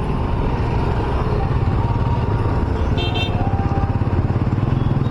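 Steady low rumble of city road traffic, with vehicle engines and motorcycles running. A short high horn beep sounds about three seconds in.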